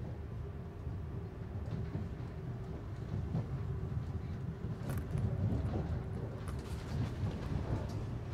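Steady low rumble of a moving passenger train, heard from inside the carriage, with a faint steady hum. From about five seconds in, a few sharp clicks come from the running gear on the track.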